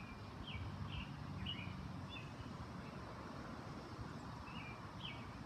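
A songbird chirping: short, slightly falling high notes about every half second, with a pause in the middle, over a steady low outdoor rumble.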